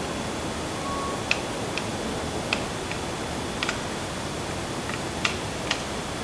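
Firewood crackling in a wood-burning stove: irregular sharp pops and snaps, about nine of them, over a steady hiss.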